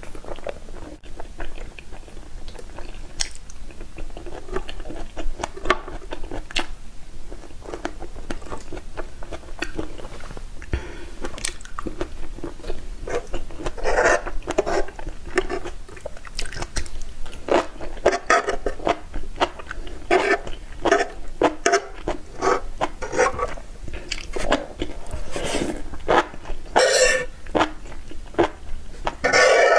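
Close-miked chewing with wet mouth smacks and light crunching. From about halfway it turns to louder, denser slurping and chewing of sauce-covered enoki mushrooms.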